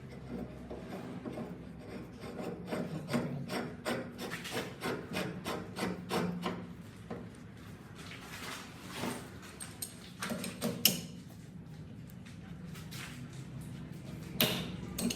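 Hand work in a workshop: a run of quick, repeated rasping strokes, then a few scattered sharp knocks.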